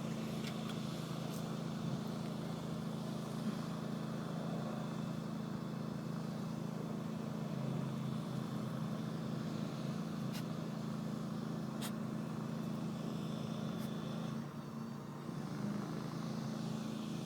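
Small dirt bike engine running at a steady, even pitch, dipping briefly near the end.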